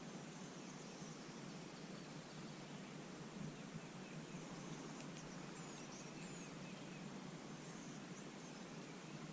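Faint outdoor ambience: a steady hiss, with a few small high bird chirps about halfway through.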